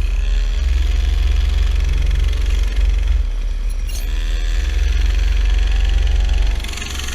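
Mini bike's small engine running under throttle, its pitch climbing as it revs up about a second in and again about four seconds in, easing off in between and near the end.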